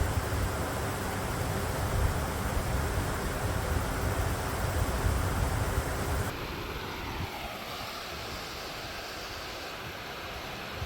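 Wind buffeting the microphone, a heavy low rumble over a steady rush of noise. About six seconds in it cuts suddenly to a quieter, steady outdoor rushing.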